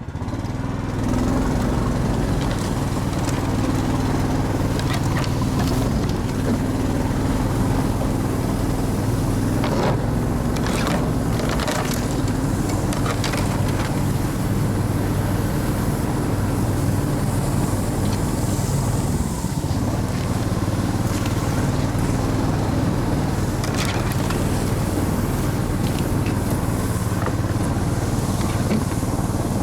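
Vehicle engine running steadily under way, with a few brief knocks and rattles in the middle.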